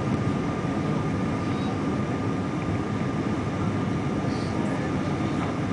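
Steady cabin noise inside a Boeing 777-200ER: the even rush of the engines and airflow, with a thin steady whine on top.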